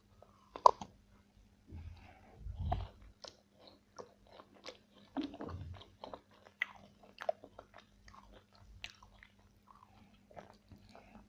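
Close-miked chewing and biting in an eating ASMR recording: many small sharp crunching clicks, with one loud snap-like bite under a second in and a few low mouth thuds around two to three and five to six seconds in, over a faint steady electrical hum.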